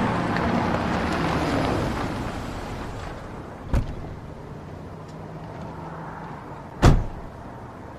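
Steady vehicle rumble, fading over the first few seconds to a low hum, with two sharp thumps about three seconds apart, the second louder.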